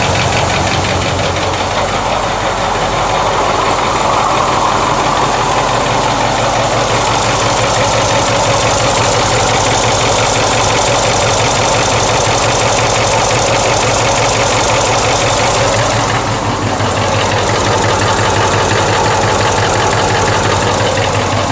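Freshly rebuilt Ford 6.4 Powerstroke diesel V8 idling steadily with a loud diesel clatter and a repeated knock. The knock comes from the rear driver's side, and the owner fears it is a bearing or lifter.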